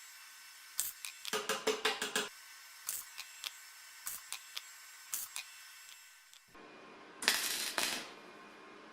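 Hand-work sounds: a quick run of clicks and rattles about a second in, a few scattered single clicks, then a short hiss about seven seconds in.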